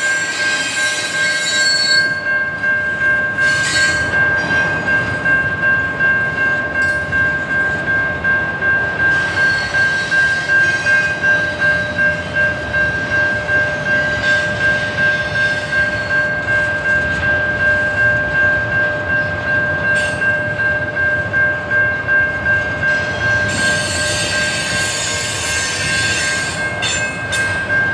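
Train rolling past, its wheels knocking in a steady rhythm of about one and a half beats a second, with a steady high squeal from the wheels throughout.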